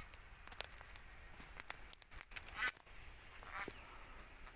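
Short, harsh, honking squawks from birds at the nest site, four or so about a second apart, among scattered sharp clicks.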